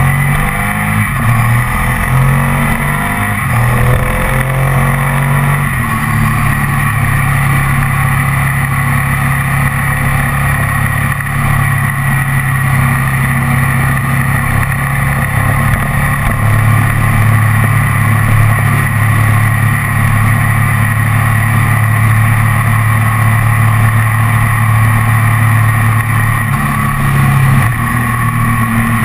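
Ducati ST4S's V-twin engine running under way, heard from on board the moving bike with wind noise. It climbs in pitch in three pulls over the first six seconds, then holds a steady cruising drone.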